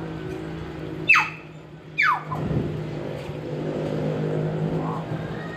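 Hill myna giving two loud, sharp whistles about a second apart, each sweeping steeply down in pitch. A steady low hum runs underneath.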